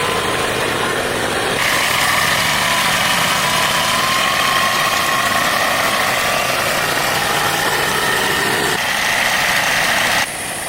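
An engine running steadily, with a faint whine over it. The sound changes abruptly about a second and a half in and again near the end.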